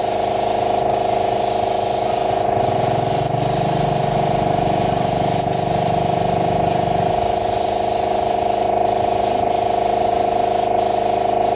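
Compressed-air spray gun hissing steadily over the constant hum of a running motor, most likely the air compressor. The hiss cuts out briefly a few times, as the trigger is released and squeezed again.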